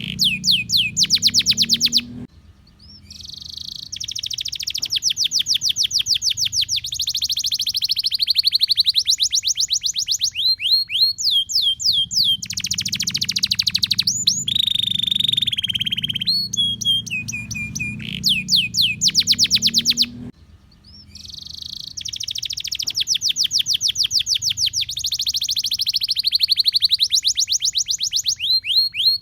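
Domestic canary singing a long song of rapid trills and rising and falling whistled notes, with short breaks about two seconds in and again about twenty seconds in.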